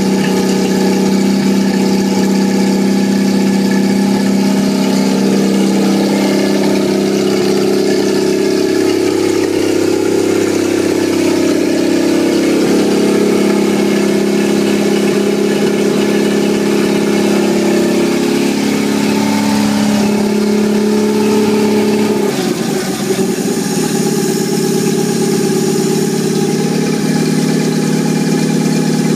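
1950 Studebaker Champion flathead straight-six engine test-running on a stand out of the car after shop work, running steadily. About two-thirds of the way through its speed drops and it settles to a slower idle.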